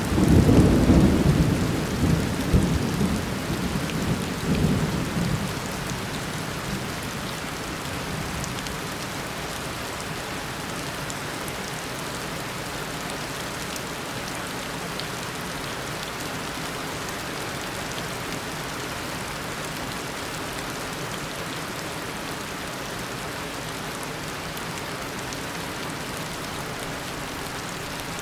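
Heavy tropical rain falling steadily, with a clap of thunder at the start that rolls and rumbles for about six seconds before dying away under the rain.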